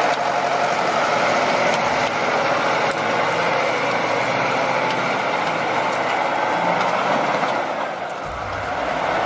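Engine of a heavy vehicle running steadily, most likely a forestry tractor working.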